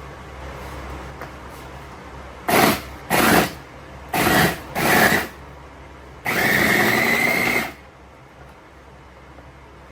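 Electric kitchen blender pulsed four times in short bursts, then run steadily for about a second and a half with a steady whine.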